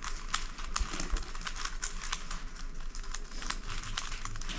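Corner Helicopter twisty puzzle being turned by hand: quick, irregular plastic clicks and rattles, several a second.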